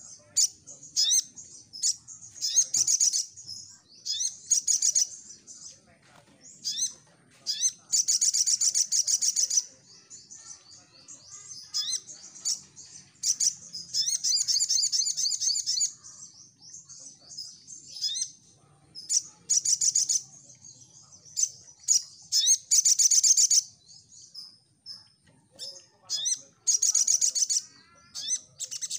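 Crimson sunbird (sogok ontong) singing loudly: fast, high-pitched trilled bursts of one to two seconds, repeated again and again with short sharp chirps between them.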